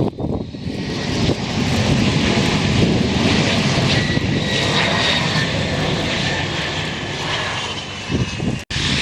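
Airplane engines running loud and close: a heavy steady rush with a faint high whine that drifts down in pitch. The sound drops out abruptly for an instant near the end.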